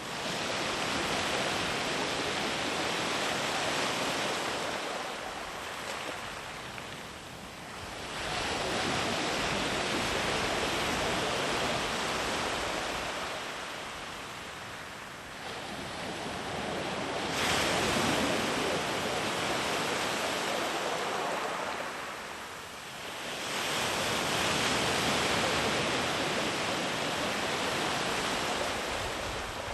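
Sea waves rolling in and breaking on the shore, the surf swelling and easing about every seven or eight seconds, with one wave breaking more sharply a little past the middle.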